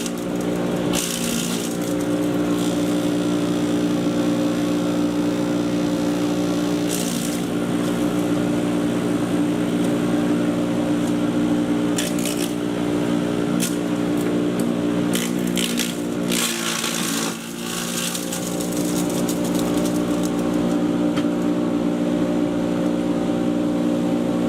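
Patriot 1.5-HP electric chipper shredder running with a steady motor hum, broken now and then by short crackling, rattling bursts as material is shredded. The motor note sags briefly about seventeen seconds in.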